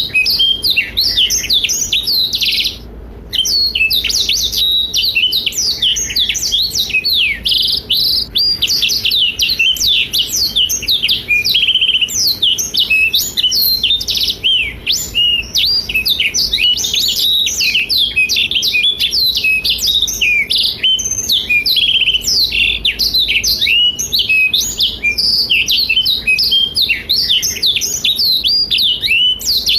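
Black-throated canary (blackthroat) singing a fast, unbroken run of high twittering and trilled notes, with a brief pause about three seconds in.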